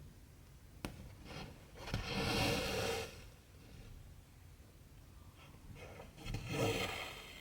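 Embroidery thread drawn through cross-stitch fabric, two rasping pulls about a second long each, with a light click shortly before the first.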